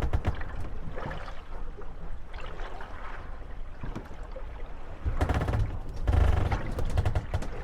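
Moored gondolas rocking on small waves, knocking and rattling against each other and the landing stage, with water lapping and sloshing around the hulls. The knocks come in quick clusters, heaviest about five to seven seconds in.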